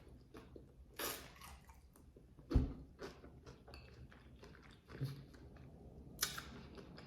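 A person chewing and biting a hard-shell tuna taco, faint, with a few short crunching bursts about one, two and a half, five and six seconds in. The loudest is a low thump about two and a half seconds in.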